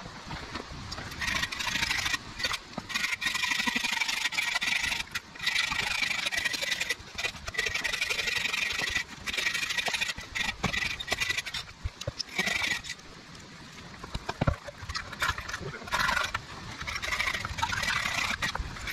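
A small engine running steadily with a high-pitched whine, broken by short dropouts; it fades out about two-thirds of the way through and comes back near the end.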